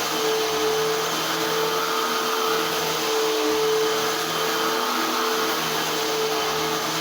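Eureka AirSpeed Unlimited Pet vacuum cleaner running steadily: a constant rush of air with a steady hum.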